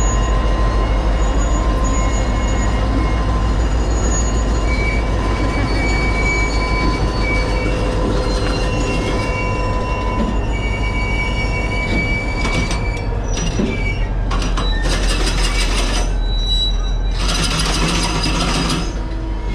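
Narrow-gauge passenger train running on the rails: a steady low rumble with thin high squealing tones from the wheels. About fifteen seconds in come two spells of rapid, harsh rattling, each lasting a second or two.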